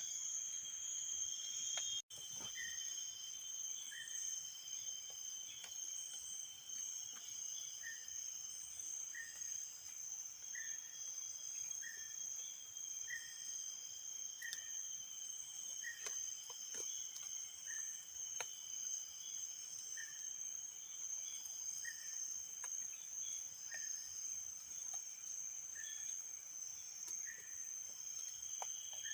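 Insects trilling steadily in high, continuous tones, with a short chirp repeating about once a second. The sound drops out briefly about two seconds in.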